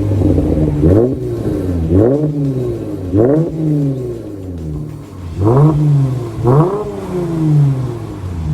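2012 BMW M3's 4.0-litre V8 revved in repeated quick throttle blips through a Kinney's Street Demon performance exhaust, each rev rising sharply and falling back to idle, with a longer pause between the third and fourth.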